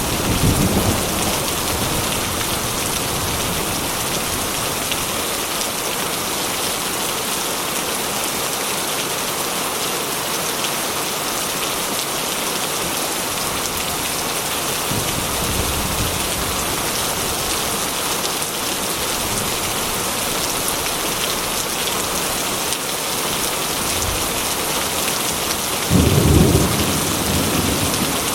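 Heavy rain falling steadily on a corrugated metal roof, with rumbles of thunder: one fading at the start, a faint one about halfway, and a louder one near the end.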